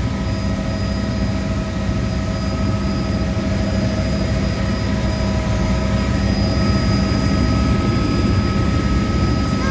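Helicopter in flight, heard from inside the cabin: a steady, loud engine and rotor drone with a constant high whine over it.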